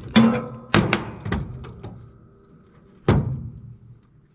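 Sharp metal clanks and knocks while a scrapped air-conditioning unit is being taken apart: three quick strikes in the first second and a half, then one more about three seconds in, each ringing briefly.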